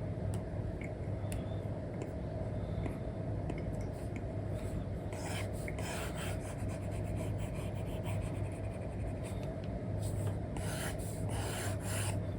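Apple Pencil tip rubbing and scratching across a paper-like matte screen film on an iPad, with light taps. The strokes come in short runs about five seconds in and again near the end, over a steady low hum.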